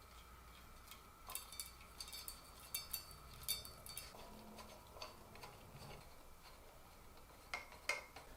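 Faint, scattered light clicks and metallic ticks of ceiling-fan light-kit parts being handled and fitted together, in a few clusters with gaps between.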